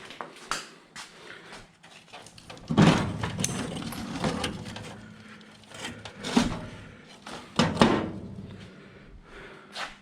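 Irregular metal clanks and knocks from hand tools working on a car's steel body, with a handful of sharp strikes, the loudest about three seconds in and again near eight seconds. A low steady hum runs under the middle few seconds.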